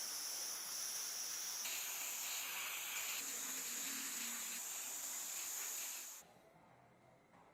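A steady, high-pitched hiss that cuts off suddenly about six seconds in, leaving only a faint hiss.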